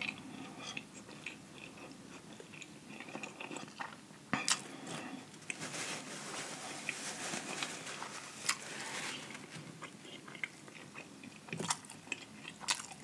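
Close-miked chewing of a sauce-dipped Popeyes spicy fried chicken sandwich: wet mouth smacking and small crunches of the breading. A paper napkin rustles around the middle.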